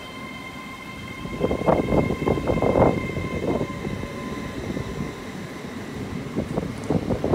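GWR Class 800 IET train moving slowly along the platform. It gives a steady high whine, with clusters of wheel clunks over the track about a second and a half in and again near the end.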